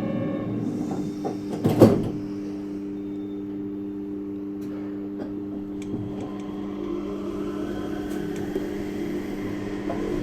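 Yurikamome 7300-series train standing at a platform with a steady electrical hum; about two seconds in, a loud thud as the doors shut. Near the end a faint rising whine begins as the train starts to move.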